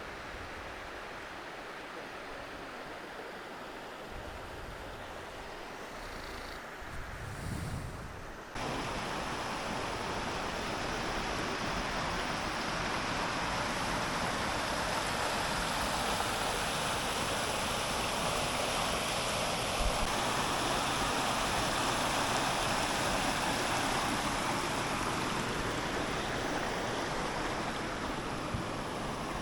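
Waterfall and creek water rushing, a steady hiss that suddenly becomes louder and brighter about eight seconds in.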